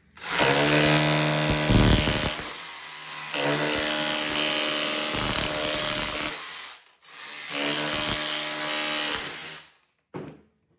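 Cordless SDS hammer drill with a wide chisel bit chipping at brick, run in three bursts of two to three seconds each with short pauses between, the motor hum steady under the hammering.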